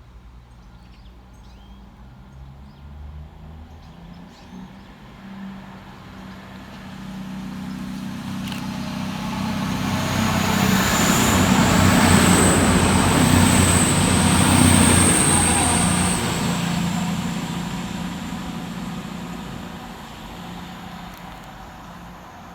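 Class 220 Voyager diesel-electric multiple unit passing through at speed. Its underfloor diesel engines and the rush of wheels and air build up, are loudest for several seconds in the middle with a high whine on top, then fade away.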